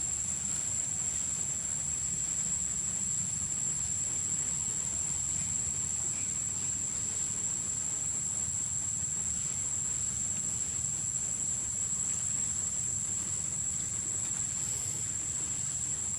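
Insects droning in one steady, unbroken high-pitched tone, over a low rumble.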